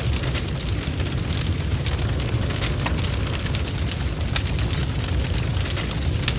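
Wood fire crackling, with many sharp irregular pops over a steady low rumble of burning.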